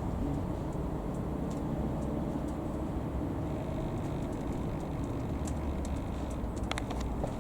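Dassault Falcon 20's turbofan engines running, a steady low rumble with a faint high whine coming in about halfway through.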